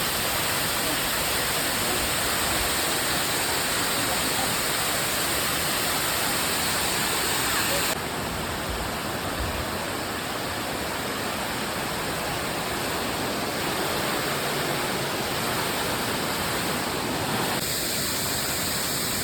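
Waterfall: a steady rush of falling water. It becomes slightly quieter and duller about eight seconds in.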